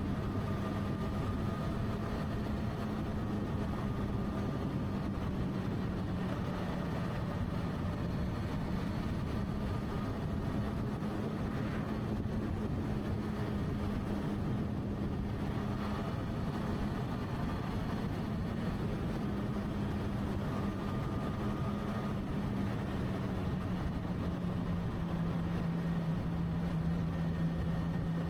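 Motorcycle engine running steadily at cruising speed over a constant rush of noise; its pitch drops a little about three-quarters of the way through.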